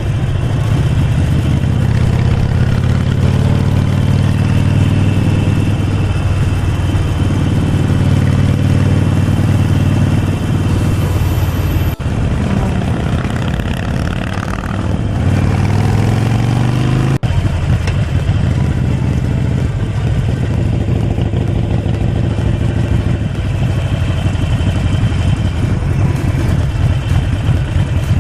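Harley-Davidson Forty-Eight Sportster's 1200 cc V-twin engine running under way, heard from the rider's helmet camera. A little before halfway its pitch climbs steadily as it accelerates, then drops suddenly, as at a gear change.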